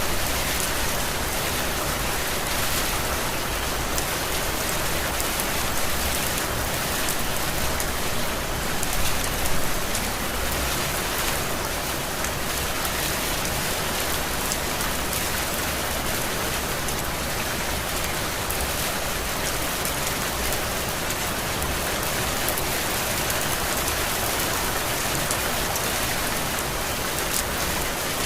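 Heavy rain falling steadily, an even hiss, with a brief louder swell about nine seconds in.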